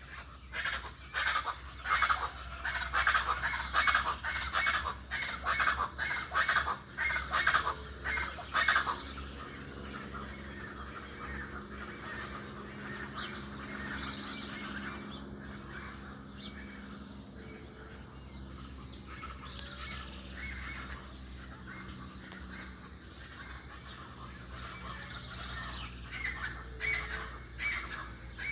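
Birds squawking in harsh, rapidly repeated calls for about the first nine seconds, then quieter continuous chirping and twittering.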